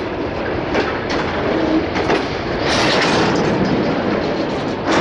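Freight train wagons rolling on the track: a steady rumble with a handful of sharp wheel clacks over the rail joints.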